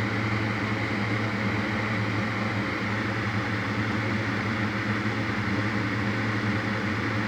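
Steady low mechanical hum with an even hiss, unchanging throughout: background machine noise picked up by the microphone.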